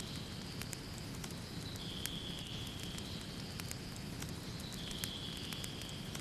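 Wood fire in a fireplace crackling, with irregular sharp pops over a steady low rumble of burning logs. A soft hiss swells and fades about every three seconds.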